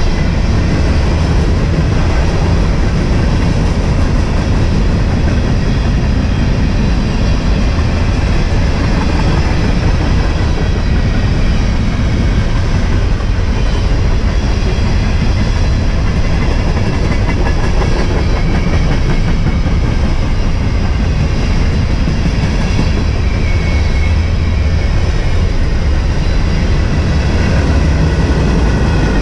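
Train passing close by, its wheels running steadily on the rails.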